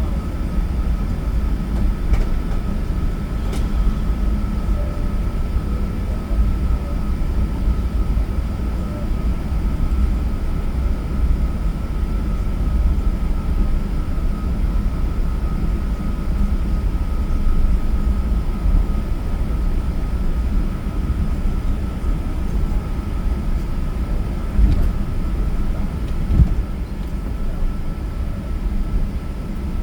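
Steady cabin noise inside an Emirates Airbus A380-800: a low rumble with a thin, constant whine over it. Two short thumps come near the end.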